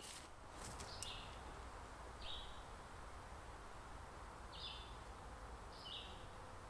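A small bird calling faintly, a short chirp that steps down in pitch, repeated about every second or so against quiet outdoor background. A faint click comes about a second in.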